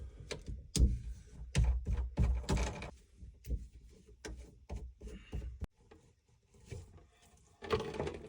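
Irregular knocks, clunks and clicks of hands working at the drain under a bathroom sink to take off the P-trap. A quick run of sharp knocks comes in the first three seconds, followed by sparser clicks.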